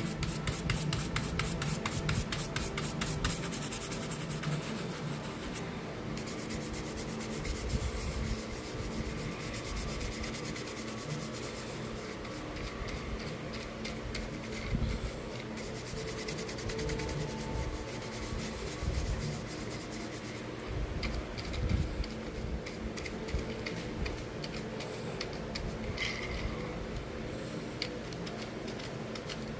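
Rub 'n Buff wax metallic finish being rubbed by hand onto a 3D print of textured carbon-fibre PLA: a steady scratchy rubbing of quick strokes, with a few light knocks as the model is handled.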